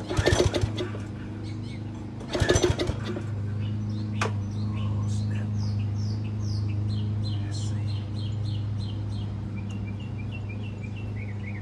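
Two short rattling clatters of handling, one at the start and one about two and a half seconds in, then small birds chirping in long repeated runs of quick notes over a steady low hum.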